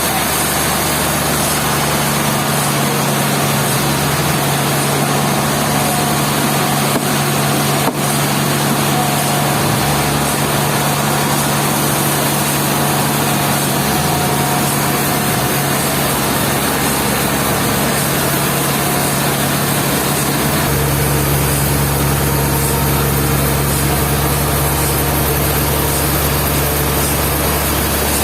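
Sawmill machinery running steadily with an even mechanical noise and low hum; a deeper hum joins about three-quarters of the way through, and there is a single brief click about eight seconds in.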